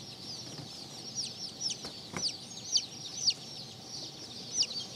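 Splash Polish chickens calling: many short, high chirps and peeps overlapping one another, with a couple of faint clicks about two seconds in.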